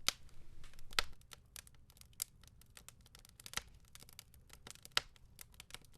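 Campfire crackling, with faint irregular sharp pops and snaps every half second or so.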